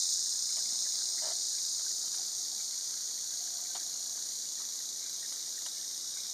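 Steady high-pitched chorus of insects, easing off slightly, with a few faint short chirps.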